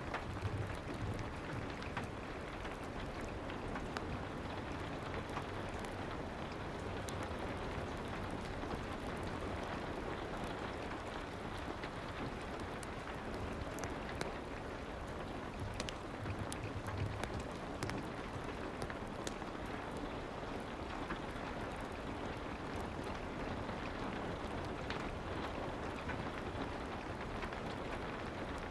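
Steady soft rain: an even hiss with scattered faint ticks.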